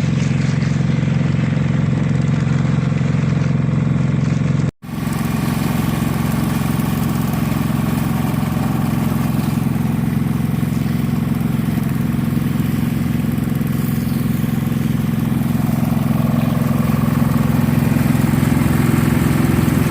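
Concrete mixer truck's engine running steadily with a low hum, broken by a brief cut to silence about five seconds in.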